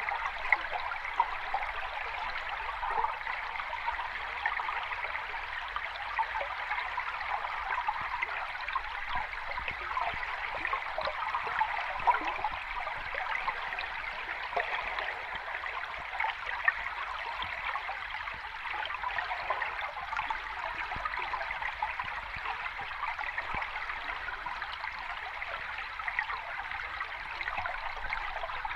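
Running water of a small cascade: a steady rush with scattered small splashes.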